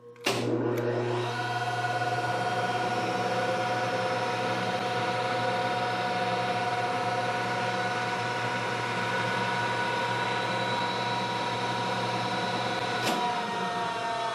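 Electric motors of a Brown & Sharpe #1 cylindrical grinder cutting back in with a click, running up to speed within about a second and then running steadily with a hum and a whine. About 13 seconds in there is another click and the motors begin to wind down as the circuit drops out again, which the owner suspects is a thermal overload heater in the starter circuit tripping.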